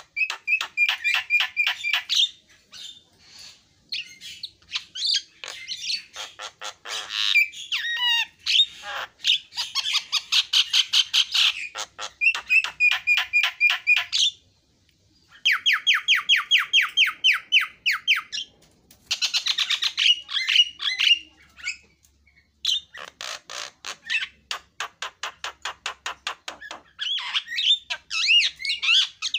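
Javan myna singing in long, varied phrases: rapid runs of repeated notes at several a second, clear whistles and harsh squawky calls, broken by brief pauses.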